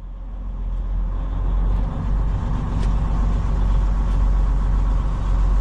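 Semi truck's diesel engine running as the tractor drives, a steady low rumble that grows louder over the first couple of seconds and then holds.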